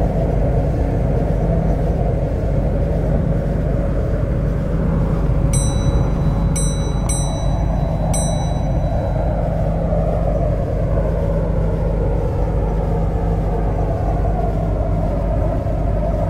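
An MTR C-Train electric multiple unit running on the track: a steady low rumble with a motor whine that glides in pitch. Four short, high electronic beeps sound in quick succession about six to eight seconds in.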